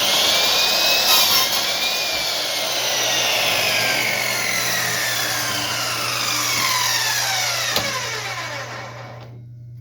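Electric chop saw starting up and cutting briefly into wood, then its blade coasting down in a long, slowly falling whine that fades out near the end.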